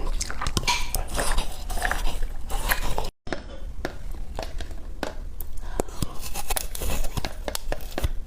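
Close-miked biting and crunching of ice in the mouth: many sharp cracks and crackles, with a brief dropout of all sound about three seconds in.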